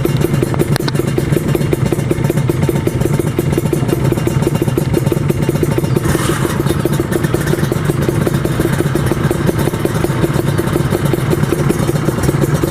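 Kawasaki Ninja 150 R two-stroke single-cylinder motorcycle engine running at a steady, even pitch, with a short burst of hiss about halfway through.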